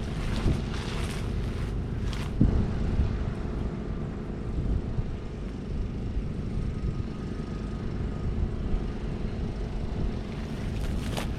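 John Deere 6145R tractor's 6.8-litre six-cylinder diesel engine running steadily, with a few short bursts of noise in the first couple of seconds and again near the end.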